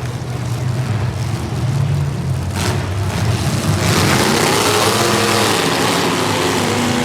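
Racing engines running on track, their pitch rising and falling as they rev and ease off.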